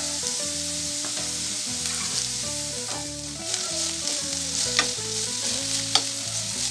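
Vegetables sizzling in hot oil in a kadai as freshly added shredded cabbage is stirred in with a spatula. There is a steady sizzle, with a few sharp knocks of the spatula against the pan about five and six seconds in.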